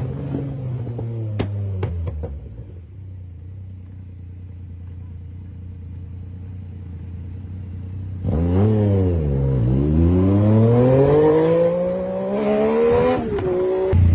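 Motorcycle engine running steadily, dropping quieter for a few seconds. About eight seconds in it is revved loudly: the pitch dips, then climbs steadily as it accelerates, and falls back near the end.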